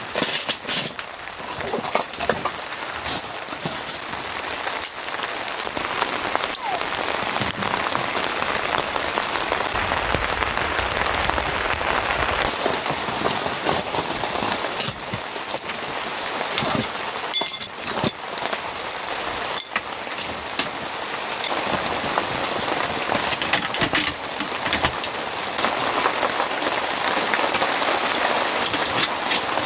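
Steady rain falling on a surface, with many sharp individual drop hits throughout.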